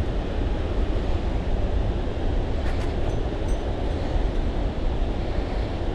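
Steady rush and deep rumble of water pouring through a dam's floodgates, an even roar with no breaks.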